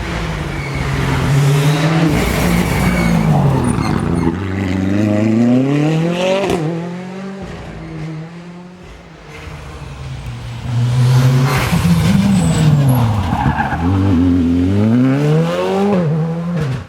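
Rally car engines revving hard, the pitch climbing through each gear and dropping sharply at every shift. The sound eases off about halfway, then a second loud passage of revving and shifting comes in.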